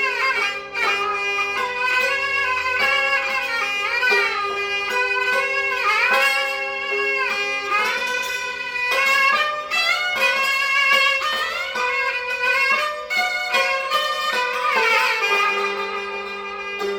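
Gaohu and yangqin playing a melody together: the high bowed gaohu line slides often between notes, over the struck strings of the yangqin.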